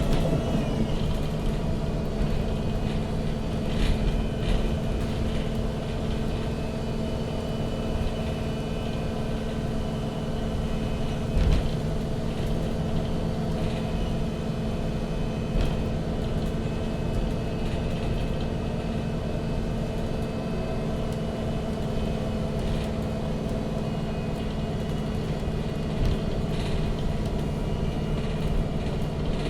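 Natural-gas engine of a MAN NG 313 CNG articulated bus running steadily, heard from inside the passenger cabin, with a few short rattles and knocks.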